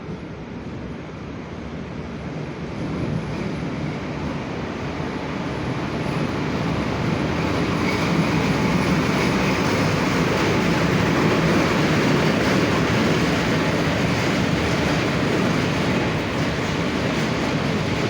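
Indian Railways train running on the track, a dense rumble that grows louder over the first several seconds and then holds steady.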